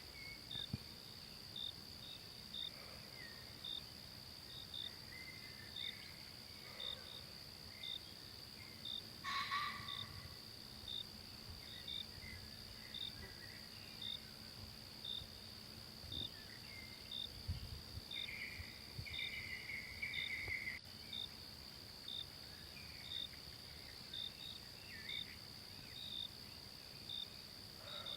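Forest ambience dominated by insects: a steady high-pitched drone with regular short chirps a little over once a second. Scattered bird calls come and go over it, with a louder call about nine seconds in and a longer one a little before two-thirds of the way through.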